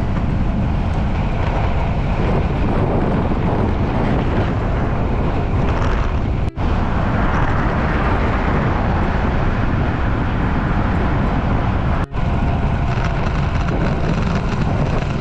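Wind rushing over a bike-mounted camera microphone while riding at speed, a loud steady rumble heaviest in the low end. It briefly cuts out twice, about six and a half and twelve seconds in.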